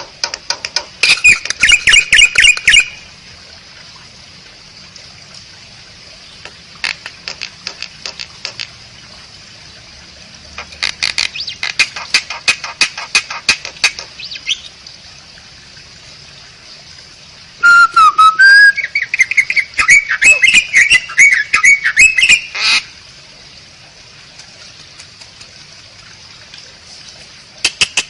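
Asian pied starling (jalak suren) singing: several short bursts of rapid chattering clicks, then about eighteen seconds in a long, loud phrase of whistles mixed with harsh chatter. A faint steady hiss fills the gaps between phrases.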